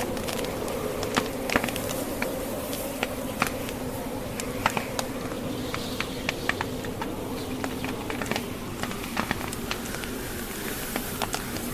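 Wood fire crackling, with frequent irregular sharp pops and snaps from the burning logs, over a steady background of wind noise.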